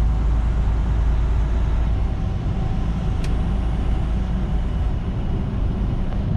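Steady low engine and road drone inside a moving semi-truck's cab, with a faint click about three seconds in.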